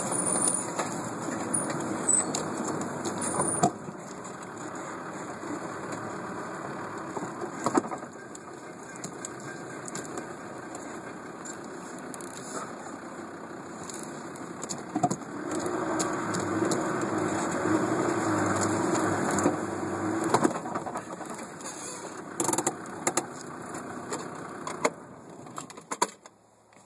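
Land Rover Defender's engine working under load up a steep off-road climb, heard from inside the cab, with scattered knocks and rattles from the body. The engine grows louder a little past halfway, then fades out near the end.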